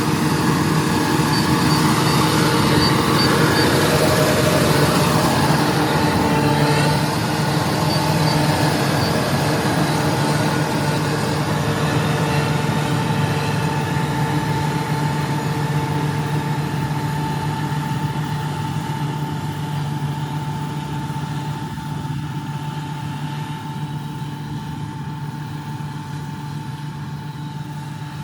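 Rice combine harvester's engine running steadily, growing gradually fainter over the second half.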